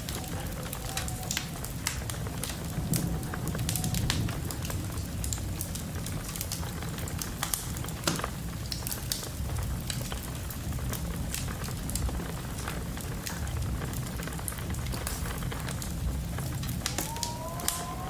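Wood fire crackling in a fireplace, with frequent sharp pops over a low steady rumble. Near the end a wavering, rising whistle of wind comes in.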